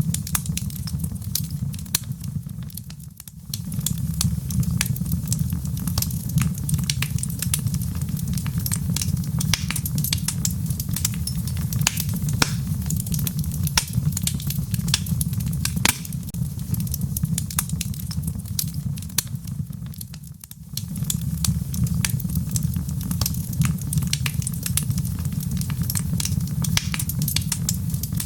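Wood fire burning in a fireplace, crackling with frequent sharp pops over a steady low rumble. The sound dips briefly twice, about 3 and 20 seconds in.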